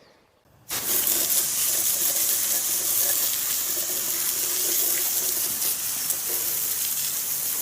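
Steady rushing water, like a stream or river running, starting suddenly about a second in.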